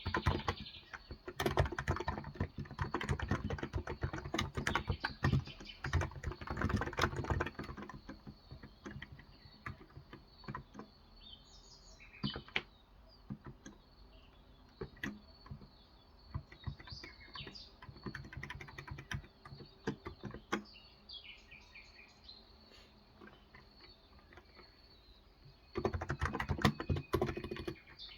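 Typing on a Cox Endeavor electro-capacitive (Topre-style) 35 g tenkeyless keyboard: quick runs of keystrokes for the first several seconds, then scattered single keypresses, then a quick run again near the end. Birds chirp in the sparse middle stretch.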